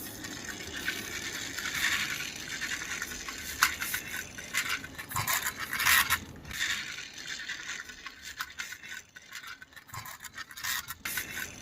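Toy plastic e-rickshaw being run along a surface: its wheels and body scrape and rattle unevenly, with scattered small clicks.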